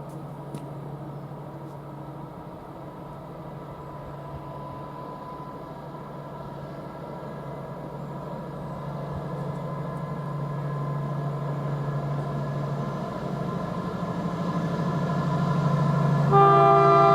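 Approaching train, its steady low running sound growing louder, then sounding its multi-tone horn, a loud chord that starts suddenly just before the end.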